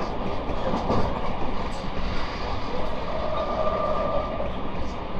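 Running sound of a JR West 223 series 2500 electric train heard from inside the passenger car at speed: a steady rumble of wheels on rail. A thin whine comes in about three seconds in and fades near the end.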